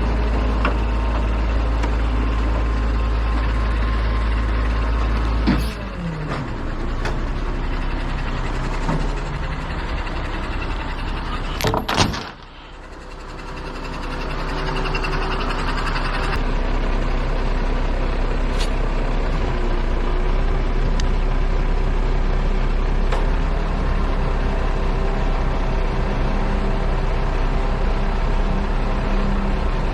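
Heavy truck engine running steadily. About 6 s in the sound changes with a knock and a falling pitch, and about 12 s in there is a sharp clunk, after which the noise drops and slowly builds again.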